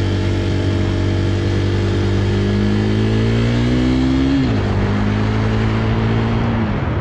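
Motorcycle engine picking up revs steadily for about four seconds as it accelerates. Then its pitch drops sharply as the throttle is eased, and it runs on at a steady lower note.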